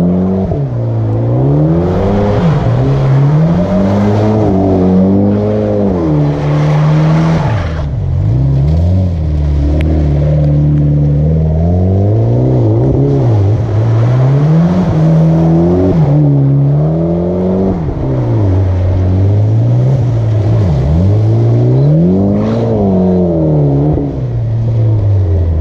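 A car engine revving hard, its pitch repeatedly climbing and dropping about every two seconds, as the car drifts through donuts on wet pavement.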